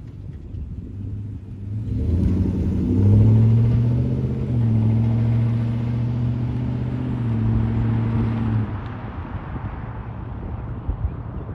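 2005 Toyota Tundra pickup's engine under way: it picks up about two seconds in, holds a steady pitch for several seconds, then eases off in the last few seconds.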